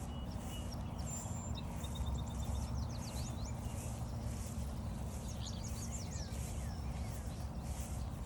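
Several songbirds singing and chirping: a quick trill about two seconds in, then bursts of rapid chirps around three and six seconds in. Underneath runs a steady low rumble and a regular patter of footsteps on the trail.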